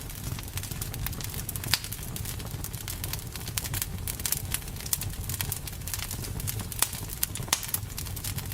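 Wood campfire crackling, with irregular sharp pops and snaps over a steady low rumble of the flames; the loudest pops come about two seconds in and near seven seconds.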